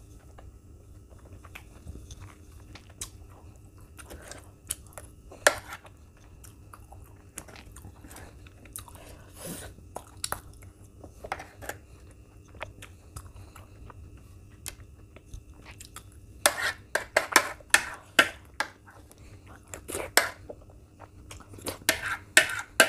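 Close-miked chewing and eating mouth sounds, with occasional sharp clicks of a metal spoon against the plate. The chewing turns busier and louder in two runs over the last several seconds.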